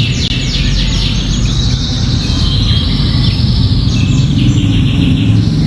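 Canary singing fast repeated trill phrases, a song filled in with bar-winged prinia (ciblek) notes, over a steady low rumble of background noise.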